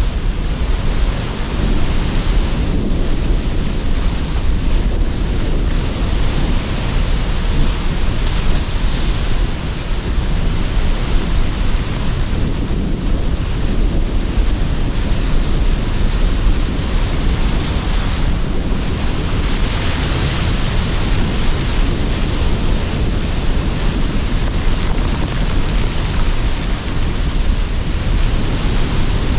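Sea surf and strong wind blowing, a steady heavy rumble with wind gusts and washing surf swelling and easing every few seconds.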